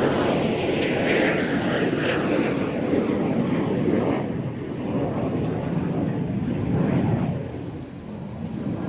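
Fixed-wing aircraft engine noise, a loud, unsteady roar that eases a little near the end.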